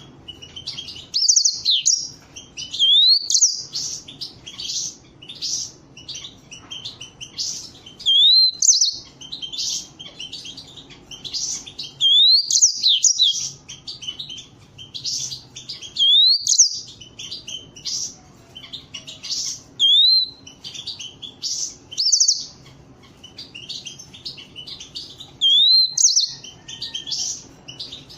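Canary song: fast high-pitched trills and chirps, broken every few seconds by a rising whistled note.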